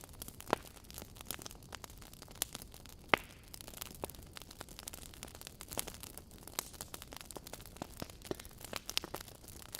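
Wood fire burning in a fireplace: a low steady hiss with irregular crackles and pops from the logs, two sharper pops standing out about half a second and three seconds in.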